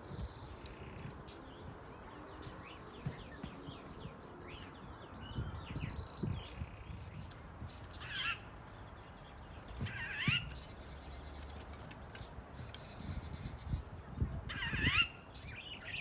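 Songbirds in a mixed aviary calling: scattered short chirps and three louder, sweeping call phrases, one about 8 seconds in, one about 10 seconds in and one near the end.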